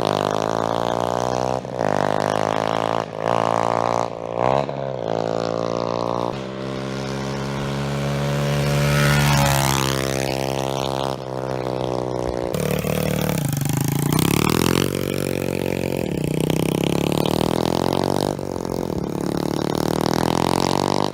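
Pit bike with a 125cc Lifan single-cylinder four-stroke engine being ridden, revs climbing and falling repeatedly with short drops as it shifts through the gears; one long climb peaks about halfway through. Really loud.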